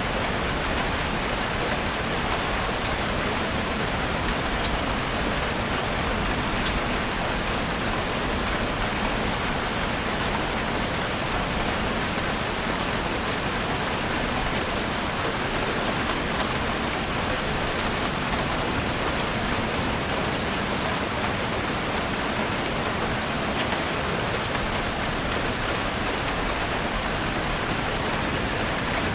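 Heavy rain falling steadily on a roof, a dense even hiss with many small drop ticks.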